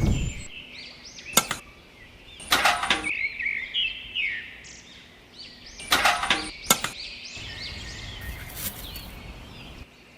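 Small birds chirping, short quick rising and falling notes, with a few sharp clicks or knocks in between: one about a second in, a cluster near three seconds, and two more around six to seven seconds.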